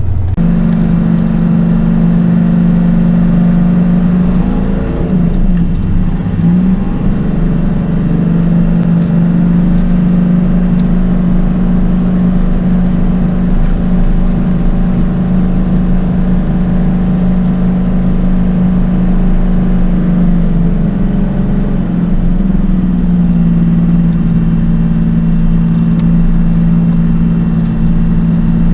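Semi-truck diesel engine running with a steady low drone; its pitch wavers briefly about five to seven seconds in, then settles again.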